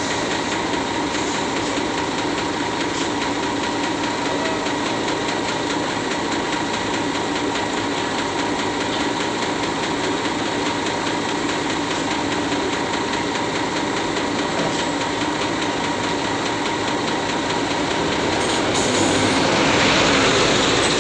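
Heavy diesel truck engines running hard under load on a steep climb, a loud steady drone that grows louder in the last few seconds.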